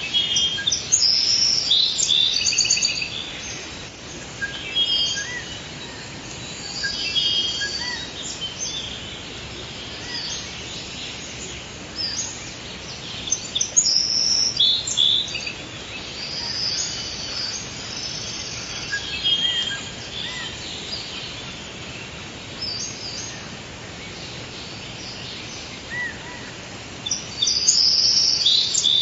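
Forest ambience: several birds chirping and singing in short phrases, coming in clusters every few seconds over a steady background hiss.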